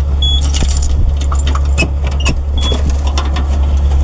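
A diesel engine of heavy construction equipment running steadily, with many metallic clinks and rattles over it and two brief high chirps.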